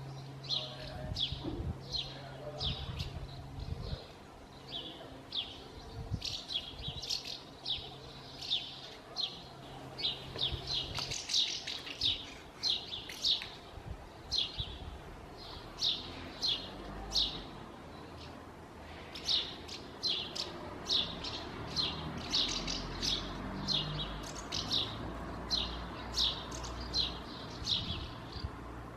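Common house martins calling: a rapid run of short chirps from several birds, overlapping, with a brief lull about eighteen seconds in. A low steady hum runs underneath for the first third and stops about eleven seconds in.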